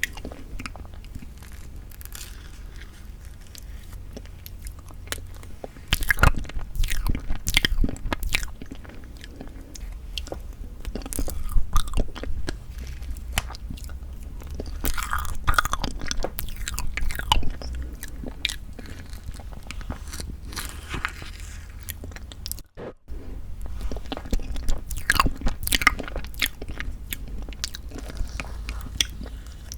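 Close-miked eating of bean curd tiramisu: irregular bites, moist chewing and mouth smacks, with a brief break about two-thirds of the way through.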